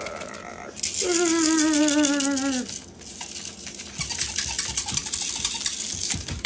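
A pet parrot gives one long wavering call, slowly falling in pitch, about a second in. From about four seconds in there is a dry rattling, scratching noise.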